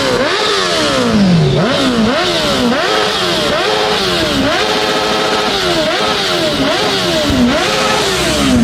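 A performance engine revved over and over, about once a second: the pitch jumps up and then falls away each time, with a raspy exhaust over it.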